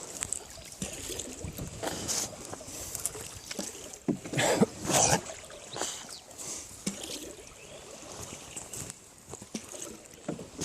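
Water splashing and sloshing in irregular bursts, the two loudest about four to five seconds in.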